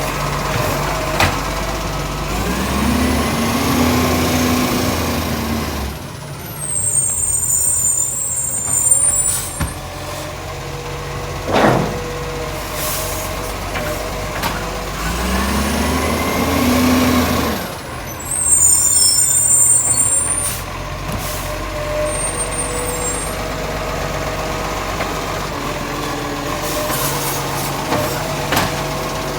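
Garbage truck with a lifting arm at work: its engine revs up and holds, then a few seconds later lets out a sharp hiss of air, the whole cycle happening twice.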